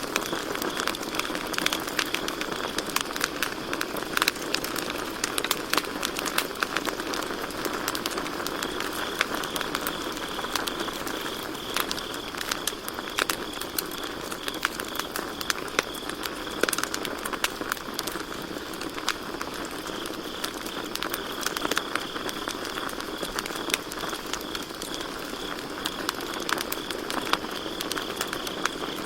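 Wood campfire crackling, with frequent sharp pops over the steady hiss of the burning fire, and crickets chirping behind it in a high, pulsing trill.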